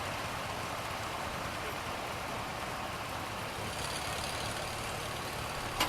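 A tractor engine running steadily at low speed, a low even hum.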